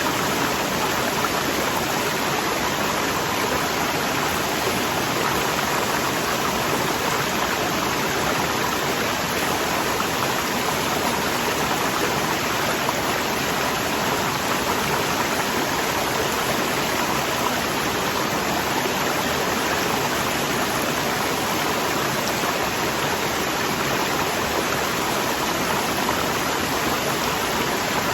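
Waterfall: powerful rushing water, a steady, even noise with no breaks or separate splashes.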